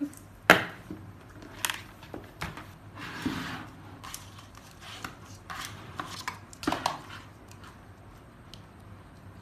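Handling noises of a small plastic device: irregular clicks and knocks, the loudest about half a second in, with a brief rustle about three seconds in.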